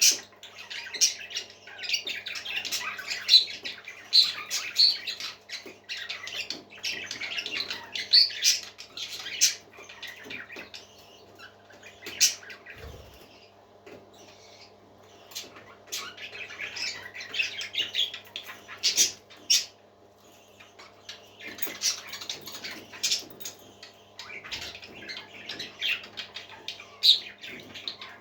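Parrots chirping and squawking in bouts of raspy, high calls, with a few quieter seconds near the middle, over a steady low hum.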